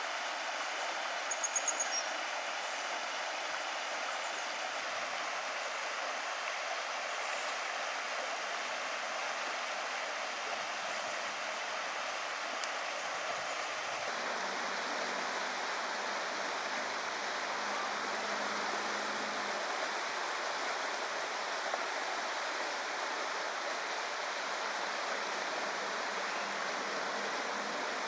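Small river flowing steadily over stones, an even rush of water. A brief run of high-pitched ticks sounds about a second and a half in, and the water sound changes character about halfway through.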